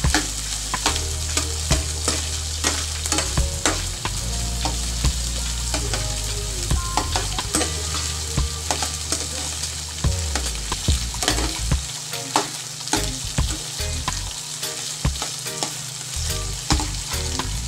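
Whole shrimp sizzling in a frying pan while a slotted metal spatula stirs and turns them, with frequent sharp clicks and scrapes of the spatula against the pan.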